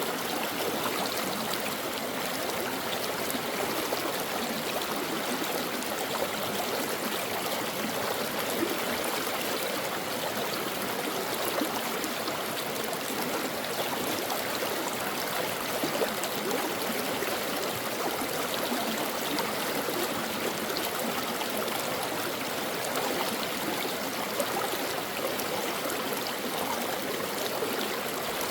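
A stream of water flowing and babbling over rocks in a steady rush, with small splashes and gurgles throughout.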